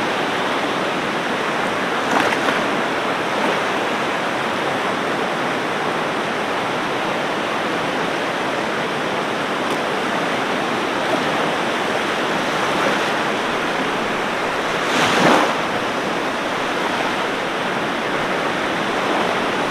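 Ocean surf washing steadily onto a beach, with a short louder surge of a breaking wave about two seconds in and a stronger one about fifteen seconds in.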